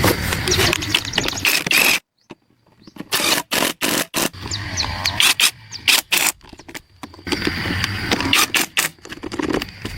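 A run of sharp knocks and scraping clatter, broken by a sudden cut to silence about two seconds in, with a low rumble under the knocks near the end.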